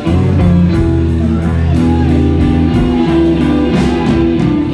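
Live blues-rock band playing an instrumental passage between sung lines: guitar lines with bent notes over sustained bass and steady cymbal strokes on the drums.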